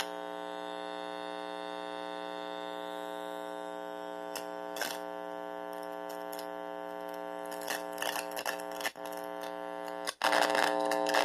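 Small guitar amplifier putting out a steady electrical buzz with many overtones, picked up through bare wires connected to its input, with a few crackles. The buzz cuts out for a moment near the end and comes back louder.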